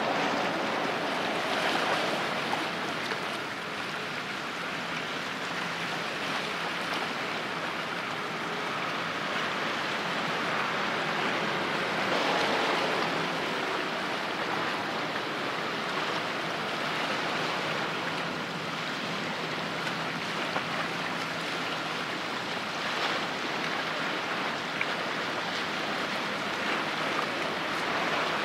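A steady rush of sea water and waves, with a faint low engine hum from a passing patrol boat underneath.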